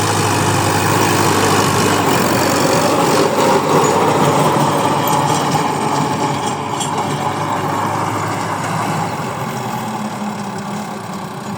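Tractor engine running steadily, growing gradually quieter over the last few seconds.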